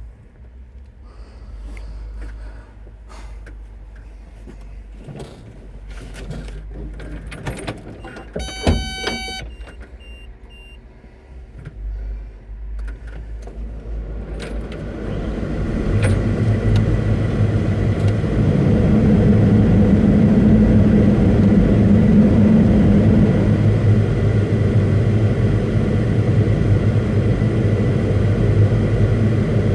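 Caterpillar 329E excavator being started: clicks and rattles, a short electronic beep about nine seconds in, then the diesel engine starts at about fourteen seconds and runs steadily and loudly from about sixteen seconds on.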